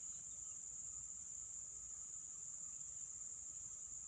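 Steady, high-pitched drone of insects calling without a break, with a fainter, lower steady tone beneath it.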